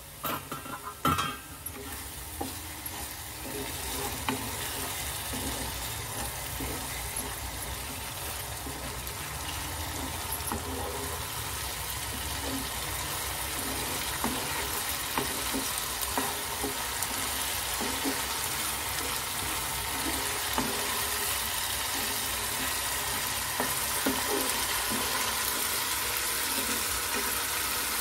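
Onion-tomato masala paste frying and sizzling in oil in a nonstick wok, stirred and scraped with a wooden spatula as it cooks down, the sizzle slowly growing louder. A couple of sharp knocks about a second in.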